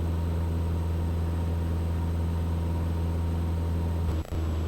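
Steady drone of a Mooney M20E's four-cylinder Lycoming engine and propeller in cruise, heard inside the cockpit, with a deep even hum. A brief dropout about four seconds in.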